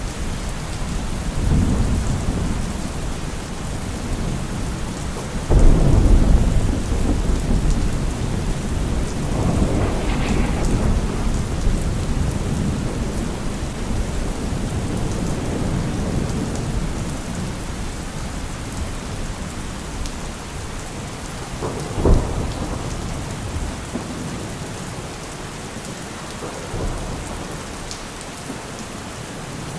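Thunderstorm with steady rain. A loud thunderclap about five and a half seconds in rolls on for several seconds, another rumble follows around ten seconds, and a short, sharp crack comes about twenty-two seconds in; the storm eases a little toward the end.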